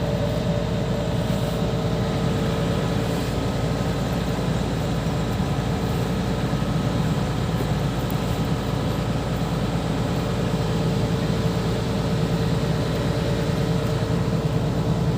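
Hitachi 210 excavator's diesel engine running steadily at a constant speed, with a continuous low rumble and a steady hum.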